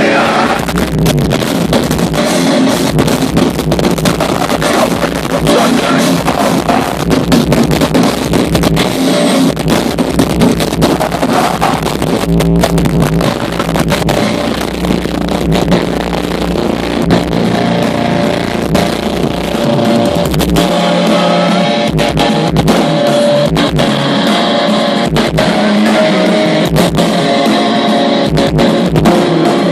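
Live metalcore band playing loud, with distorted electric guitars and a drum kit. About two-thirds of the way through, a clearer melodic guitar line comes forward over stop-start low hits.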